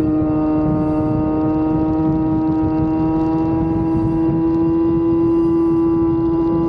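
Sport motorcycle's inline-four engine running under steady load while riding, its pitch climbing slowly and evenly as the bike gathers speed, over a constant low rumble.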